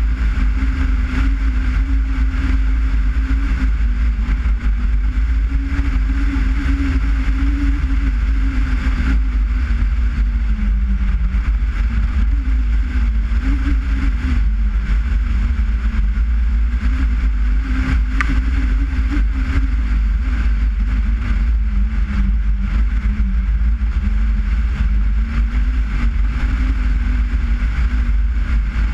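Skoda Forman's engine running steadily under way, its pitch drifting slightly up and down, over a heavy low rumble and steady road and wind hiss.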